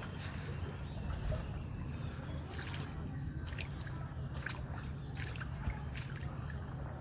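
Floodwater sloshing and trickling, with scattered short ticks over a steady low rumble.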